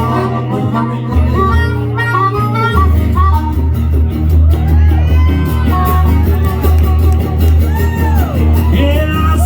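Band music, an instrumental break in a country-blues song: a lead line with bent notes that slide up and back down, over steady bass and rhythm.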